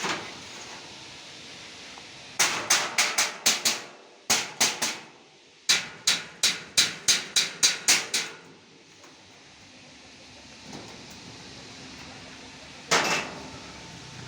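Hammer blows on metal in quick runs of about four a second, three runs in a row, then one last blow near the end.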